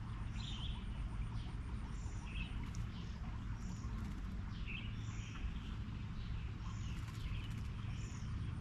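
Birds calling in short, repeated chirps about once a second, some higher than others, over a steady low background rumble.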